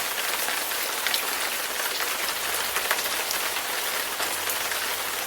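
Steady rain falling: a dense, even hiss with scattered louder drop taps.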